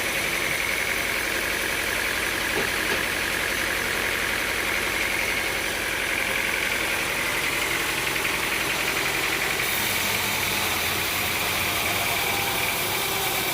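Sawmill machinery running steadily: a motor's even drone with a high whine that wavers slightly in pitch.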